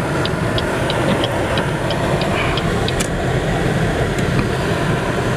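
Car driving on a snowy road, heard from inside the cabin: a steady rumble of engine and tyres, with a run of sharp, evenly spaced ticks, about three a second, that stops about three seconds in.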